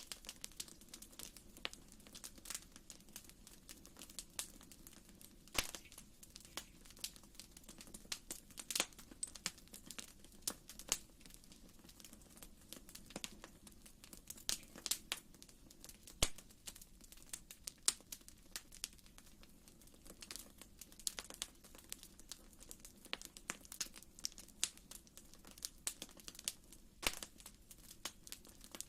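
Wood fire in a fireplace crackling: irregular small pops and snaps over a low, steady rush of the flames.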